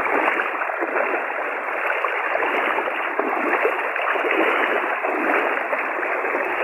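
Floodwater rushing steadily, an even noise that does not let up.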